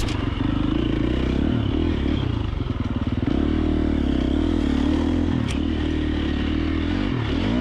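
A 2024 KTM 350 XC-F dirt bike's single-cylinder four-stroke engine running on the trail, its pitch rising and falling with the throttle and dipping about two and a half seconds in. Two sharp clicks come through, one at the start and one about five and a half seconds in.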